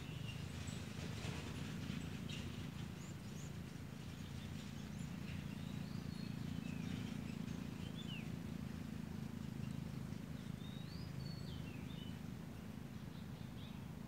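Wild birds giving scattered short chirps and brief rising and falling whistles, over a steady low rumble of outdoor background noise.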